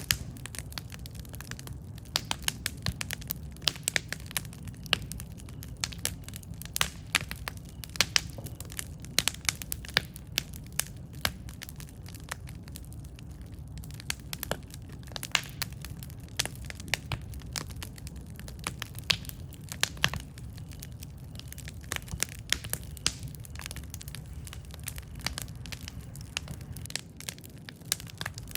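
Wood campfire crackling: irregular sharp pops and snaps, several a second, over a steady low rumble of burning.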